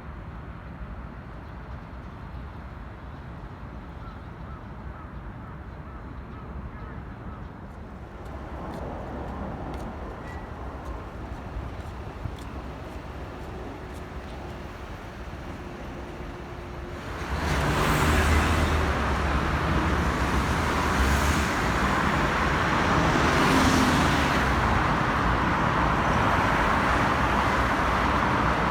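Street traffic noise: a low steady hum of distant traffic, then about halfway through a much louder wash of road traffic with several vehicles swelling past.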